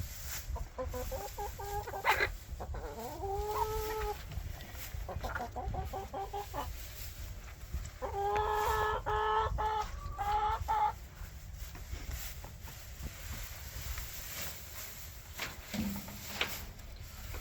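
Hens clucking and giving drawn-out calls, several in a row, busiest about eight to eleven seconds in. After that they quiet down to a few light taps.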